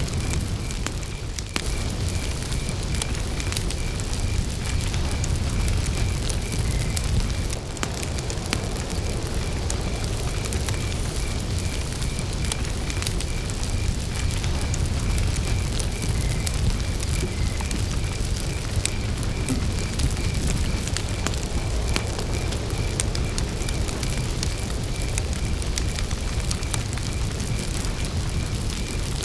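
Wood campfire burning, with frequent sharp crackles and pops over a low rumble of flame. A cricket chirps steadily at one high pitch, about twice a second.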